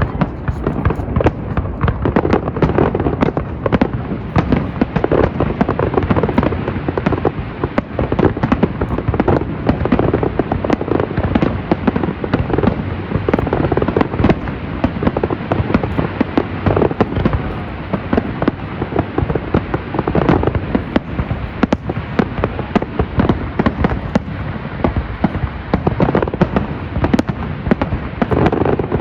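Fireworks display: a loud, rapid, unbroken barrage of bangs.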